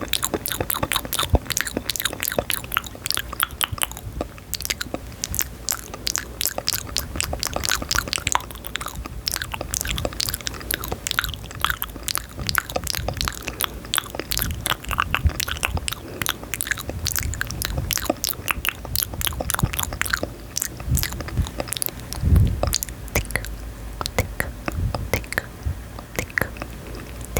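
Close-miked mouth sounds: rapid small wet clicks and crackles like chewing and biting, with occasional soft low thumps.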